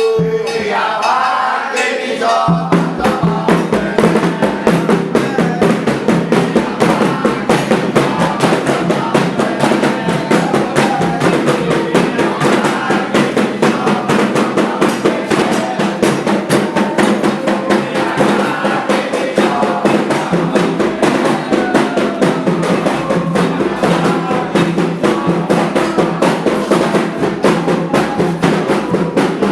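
Candomblé ritual drumming on atabaque hand drums: a fast, dense, unbroken stream of strokes.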